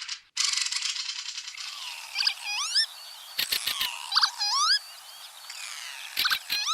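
Animal calls: a fast buzzy trill at first, then a series of short rising, hooked calls, with two quick runs of sharp clicks between them.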